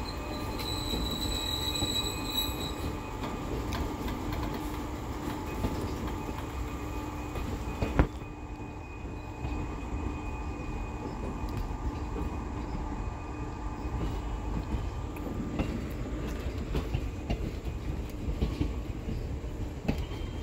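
Long train of NMG covered automobile-carrier coaches rolling past, a steady rumble and rattle of wheels on rail, with a thin high wheel squeal in the first couple of seconds. One sharp crack about eight seconds in.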